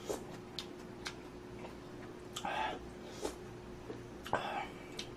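Eating noises of instant budae-jjigae ramyeon: scattered small mouth and utensil clicks, with two short slurps or sips of broth, one midway and one near the end.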